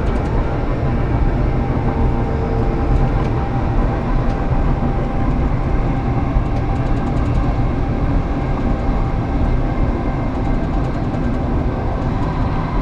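Passenger train running at speed, heard from inside the carriage: a steady rumble of wheels on rail with a faint steady whine.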